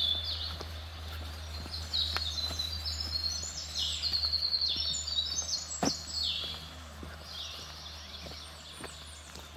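Several songbirds singing in woodland, with many overlapping high, falling chirps that are thickest through the middle. Footsteps sound on a dirt path.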